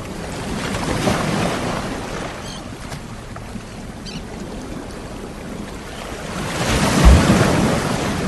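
Ocean waves breaking on the shore: two swells of surf about six seconds apart, the second louder with a low thud as it breaks.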